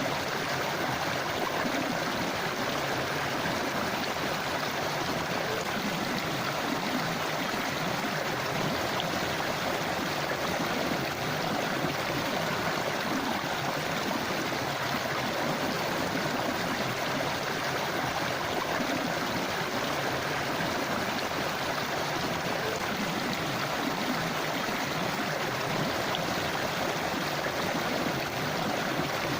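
A river's flowing water rushing and gurgling steadily.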